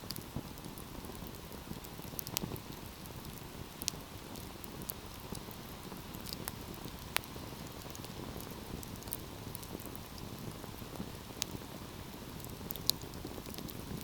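Wood fire burning steadily with a low rushing hiss and scattered sharp crackles and pops every second or two, a few louder snaps among them.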